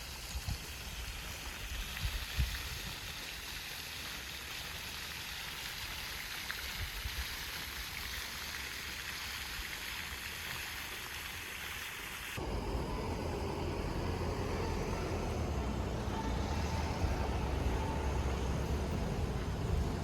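Steady noise of a car on the road, heard from inside the cabin; about twelve seconds in it changes abruptly to a louder, deeper rumble.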